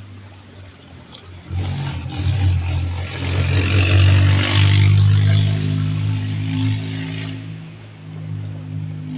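A motor hums steadily. A loud rushing hiss swells in about a second and a half in, peaks midway and fades away near the end.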